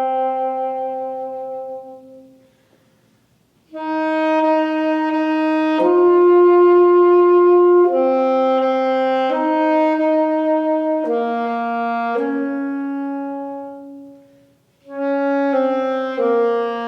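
Slow instrumental music of long, steady held notes in a wind-instrument-like tone, played in phrases. A phrase fades out about two seconds in, a brief silence follows, and another pause comes near the end.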